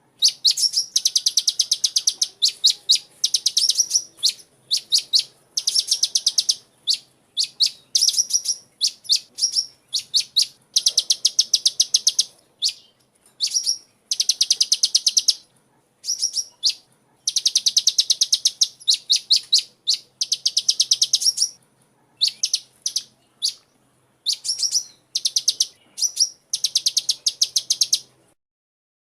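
Sunbird (kolibri) singing: high-pitched rapid trills, each a quick run of notes lasting one to two seconds, repeated over and over with short pauses, then stopping near the end.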